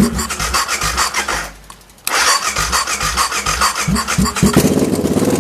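BMW F650GS motorcycle's electric starter cranking the engine in two bursts, with a short pause about a second and a half in; the engine does not settle into running, which the seller puts down to a faulty fuel pump.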